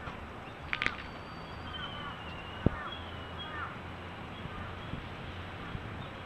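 Faint bird chirps and short calls over steady outdoor background noise, with one sharp knock a little over two and a half seconds in.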